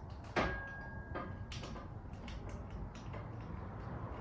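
A sharp metallic clink about half a second in that rings briefly, then a few lighter clicks and taps of metal tools and parts, over a steady low highway rumble.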